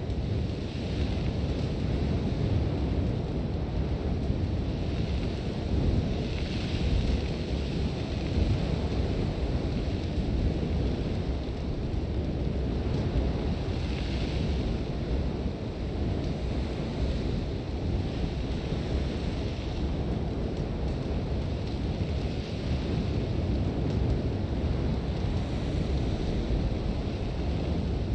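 Sandstorm wind blowing hard: a continuous low rumble of buffeting gusts, with a higher hiss of blown sand that swells now and then.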